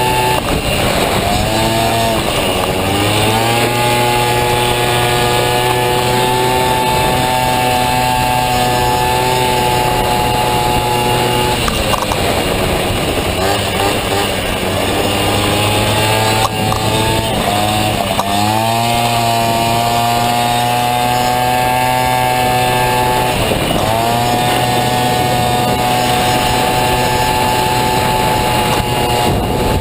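Honda Dio two-stroke scooter engine in a Honda Motocompo, loud and buzzing at high revs around a race track. The engine note drops and climbs back up as the rider backs off for corners and accelerates out again: about a second in, between about 12 and 18 seconds, and near 24 seconds. It holds a steady high pitch on the straights.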